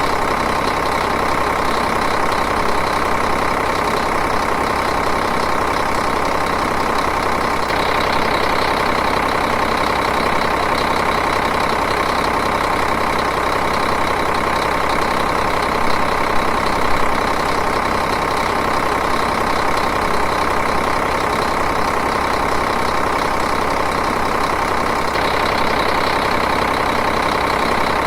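Diesel engine idling steadily with an even, rapid clatter.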